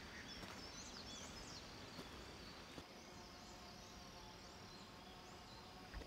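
Quiet hillside forest ambience: a few faint, quick bird chirps, mostly in the first second and a half, over a low steady background hiss and a faint steady high tone.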